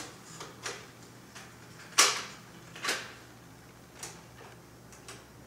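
Irregular clicks and knocks, about eight spread over a few seconds, with the loudest about two seconds in, over a faint low hum.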